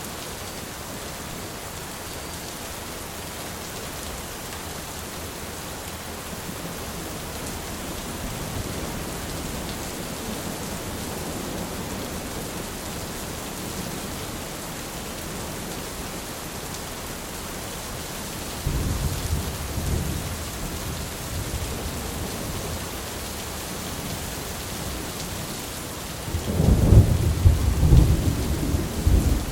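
Steady rain with thunder rumbling: a low rumble begins suddenly about two-thirds of the way through, and a louder, longer peal of thunder comes near the end.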